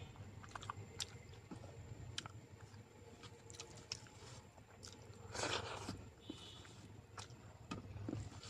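A person chewing a mouthful of rice and vegetables, with short wet mouth clicks scattered throughout. About five and a half seconds in comes a louder noisy sound lasting about half a second.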